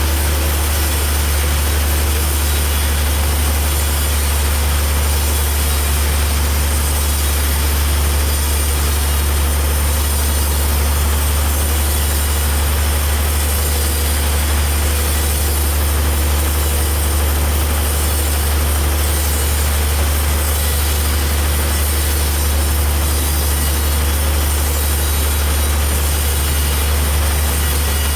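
Heavy machinery running steadily: a deep, unchanging hum with an even hiss over it.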